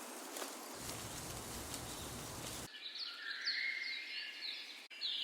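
Nature ambience: a steady hiss with faint ticks, switching abruptly about two and a half seconds in to birdsong, with a bird repeating short falling chirps over a lower warbling call.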